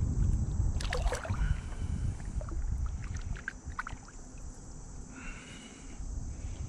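Water sloshing against a kayak, with low rumbling handling noise that eases off after about two seconds and a few light clicks, over a steady high-pitched insect drone.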